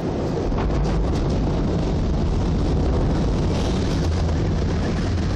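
Thunder from a real lightning strike, a loud, deep rumble that sets in abruptly and rolls on steadily for several seconds.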